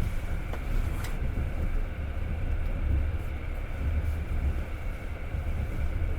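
Passenger train carriage in motion, heard from inside: a steady low rumble of wheels on rail, with a few faint clicks, one about a second in.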